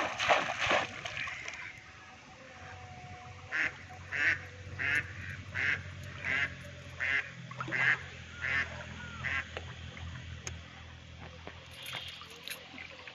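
Water splashing as a fishing line is pulled out of the river, then a bird calling about ten times at an even pace, over a low steady hum.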